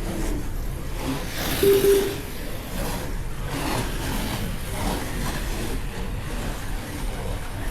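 Slot cars racing round the track: small electric motors whirring and the cars rattling along the slot, with a short beep about two seconds in.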